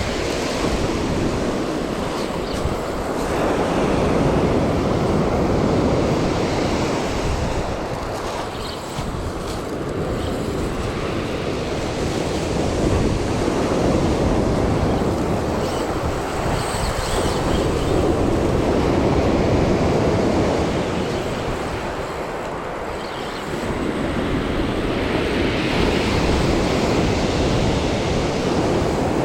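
Surf breaking and washing up the beach, swelling and easing every several seconds, with wind on the microphone.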